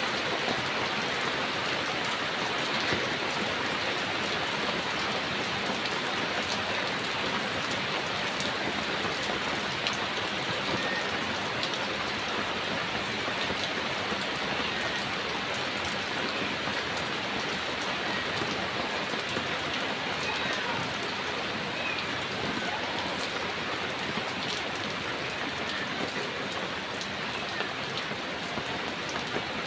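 Heavy rain falling steadily, a dense even patter with scattered sharper drop ticks.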